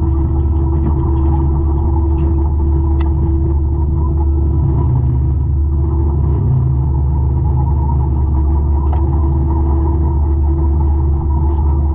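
200-horsepower forestry mulcher running steadily under load: a constant low engine rumble with a steady hum. There are a couple of faint sharp ticks about three and nine seconds in.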